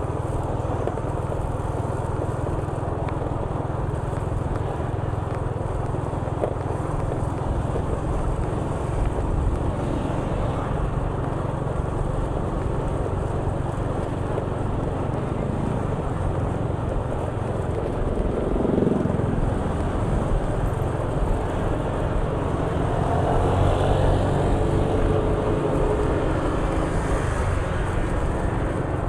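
Steady engine rumble and road noise of a motorcycle being ridden. About two-thirds of the way through, a passing vehicle's pitch falls as it goes by.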